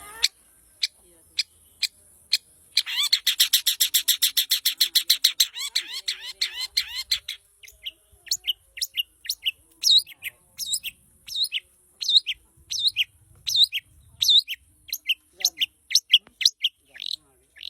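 Long-tailed shrike (cendet) singing. It opens with a few sharp clicks, then a fast, dense chatter for about four seconds, then a string of separate high notes, about two a second.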